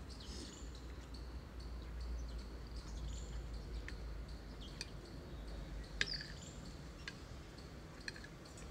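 Small birds chirping and tweeting in short calls, mixed with brief sharp ticks; the loudest tick comes about six seconds in.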